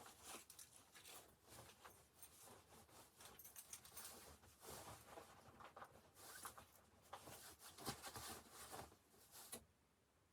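Faint, irregular rustling with light clicks, as of things being handled close to the microphone; it stops shortly before the end.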